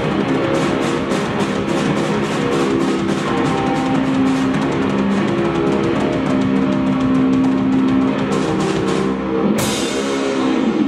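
Live rock band playing loudly on drum kit and guitar, with rapid cymbal strikes over held guitar notes. A big crash hit comes near the end, as the song reaches its final bars.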